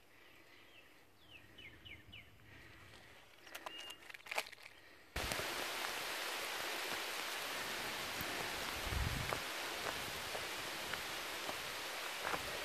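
A few short bird chirps and light clicks over quiet outdoor ambience. About five seconds in, this cuts abruptly to a steady, loud rushing noise.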